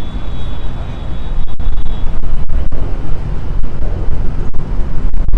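Car engine and exhaust running loud with a deep rumble, getting louder about a second in.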